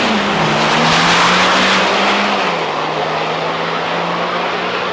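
Turbo-diesel pickup trucks making a full-throttle drag-strip pass: loud engine and exhaust noise with a high turbo whistle that fades out about a second in. The engine note steps down in pitch twice.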